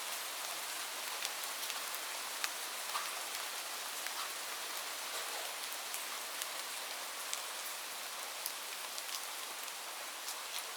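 Light rain falling steadily: an even hiss with many scattered, sharper drop ticks.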